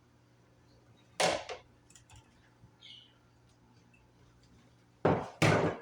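Kitchen clatter: a sharp knock about a second in, then two more in quick succession near the end.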